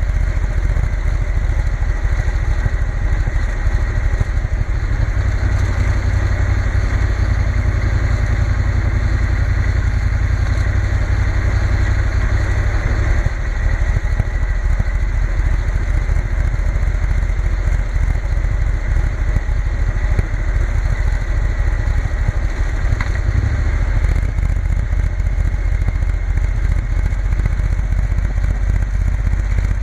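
Triumph Bonneville T120 motorcycle engine running steadily on the move. Its note changes briefly about halfway through and again later on.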